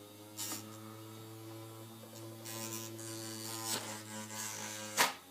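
Small electric motor of a paper airplane launcher running at a steady speed with an electric buzz. Several sharp knocks cut across it, the loudest about five seconds in.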